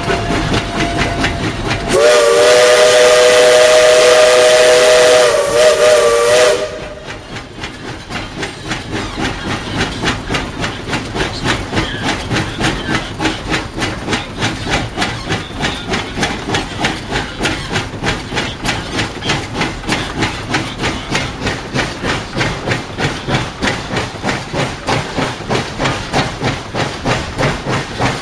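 Tweetsie Railroad #12, a 4-6-0 steam locomotive, sounds one long whistle blast of several notes about two seconds in, lasting four to five seconds. Then the engine works on with steady exhaust chuffs at about two a second.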